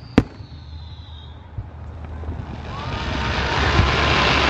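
Fireworks: a sharp bang just after the start, then a thin whistle that drops slightly in pitch and fades over about a second. A hissing whoosh then grows louder through the last two seconds as another shell climbs on a trail of sparks.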